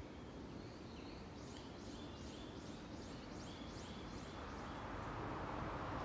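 A Japanese bush warbler (uguisu) calling a quick series of about nine repeated high notes. Near the end a broad background rush swells up beneath it.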